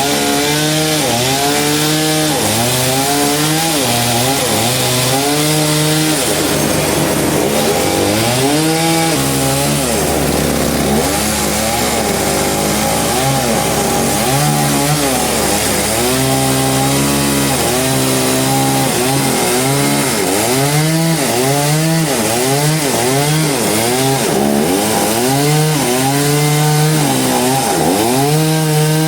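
Chainsaw cutting through a large trembesi log, its engine pitch repeatedly dipping and climbing back as the chain bites and frees in the wood, with a steadier, lower-pitched stretch partway through.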